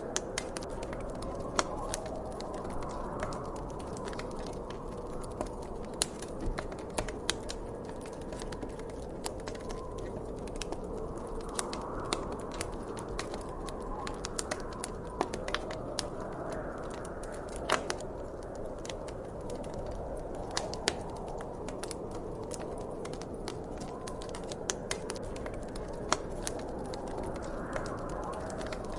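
Wood fire crackling, with irregular sharp pops and snaps, a few louder than the rest, over a steady low rush of gentle wind.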